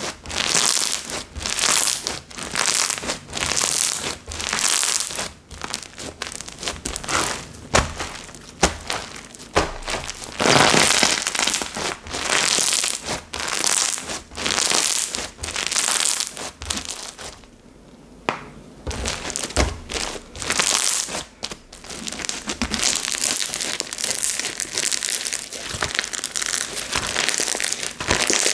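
Slime being squeezed and worked by hand, crackling and squishing in repeated bursts about once a second, with a short lull past the middle and a denser, more continuous crackle near the end.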